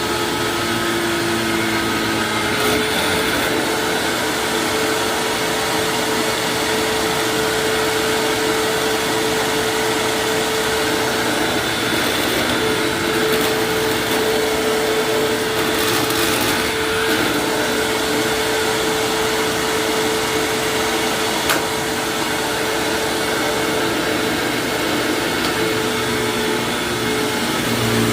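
1999 Hoover WindTunnel self-propelled upright vacuum cleaner (model U6425-900) running steadily: an even, loud motor-and-airflow noise with a constant hum.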